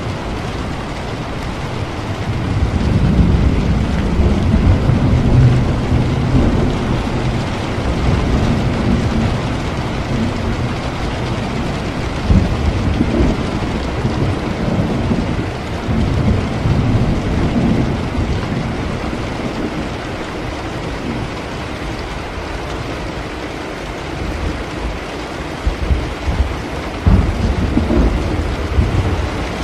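Steady rain with rolling thunder. The low rumble swells a few times, strongest about a few seconds in and again near the end.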